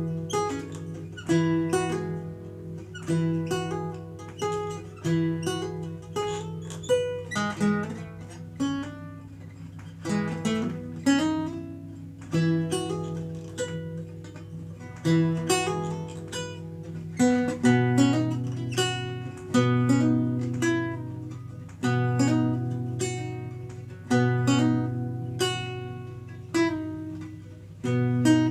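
Renaissance lute being played: plucked chords and single notes in a slow, even pulse of about one a second, each ringing and fading, over low bass notes.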